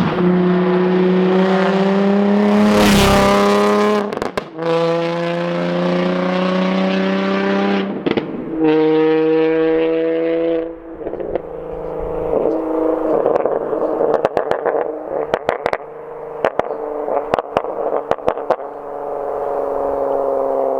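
2006 Infiniti G35 coupe's 3.5-litre VQ35DE Rev-Up V6 through a Tomei single-exit 3-inch exhaust, pulling hard through the gears: three rising pulls broken by short dips at the manual gear changes. Then it comes off the throttle with a run of sharp pops and crackles, and picks up again near the end.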